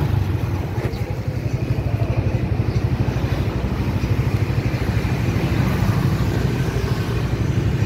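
Motorbike engine running at a low, steady speed, a fast even putter heard from the rider's seat.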